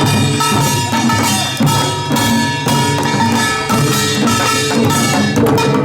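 Korean pungmul folk percussion music: drums struck in a steady rhythm over ringing gongs.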